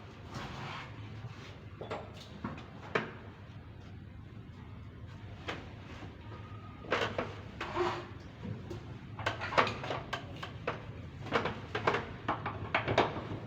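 Irregular clicks, knocks and clatter of hand tools and parts being worked on a vehicle's fuel tank mountings and fuel lines, busier in the second half, over a low steady hum.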